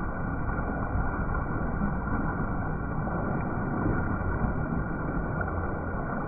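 Steady rushing of a pool waterfall pouring into the water.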